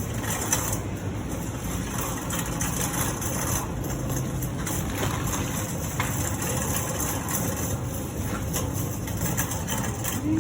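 Steady car engine and road noise with a low hum, holding at an even level.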